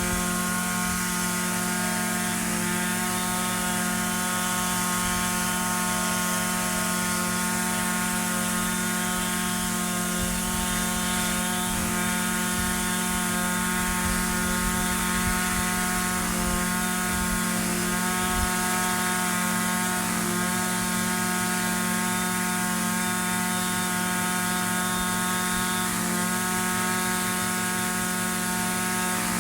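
Echo SRM-2620 string trimmer's small two-stroke engine running steadily at an even speed, with a few brief slight dips in pitch.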